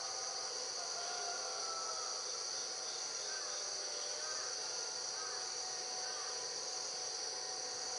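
Steady chorus of insects: a shrill high trill held without a break, with fainter, lower chirps mixed in.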